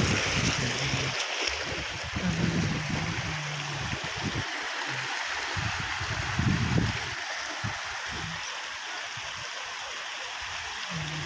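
Steady rush of moving water, with low rumbling bumps now and then.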